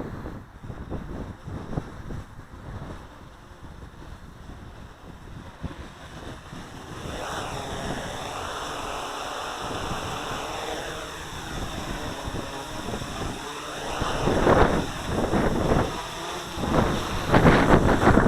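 SK450 quadcopter's electric motors and propellers whining as it flies, the pitch rising and falling from about seven seconds in. Wind buffets the microphone throughout, with heavy gusts near the end.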